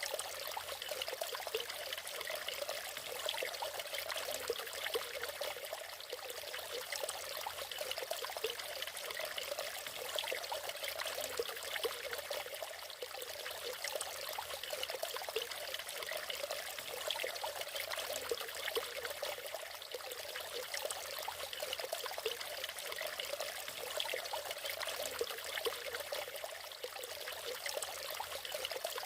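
Water of a small natural waterfall or cascade splashing and trickling steadily, a continuous splashing with no low rumble.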